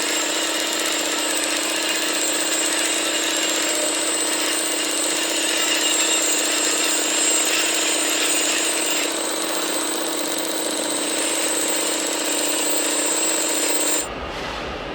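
Steady mechanical whine from an RC model machine's motor running continuously, holding one pitch with several higher tones above it, cut off suddenly near the end.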